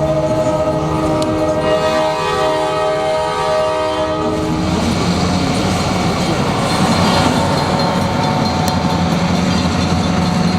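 Horn of SJVR EMD GP38 diesel locomotives sounding a steady multi-note chord that stops about four and a half seconds in. After that the locomotives' engines rumble and the wheels run past the crossing.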